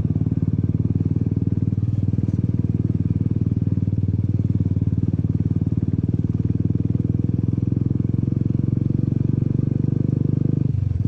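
Royal Enfield Classic 500's single-cylinder engine thumping steadily at cruise while riding, heard close up from the bike, with a short dip in the engine sound near the end.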